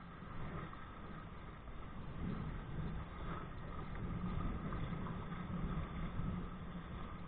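Steady low rumble of wind buffeting a body-worn camera's microphone, mixed with water rushing past a kayak under kite power.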